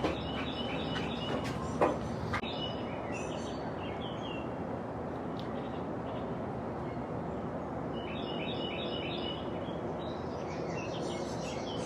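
Small birds chirping in short runs of quick high notes, four times, over a steady background noise, with a single click about two seconds in.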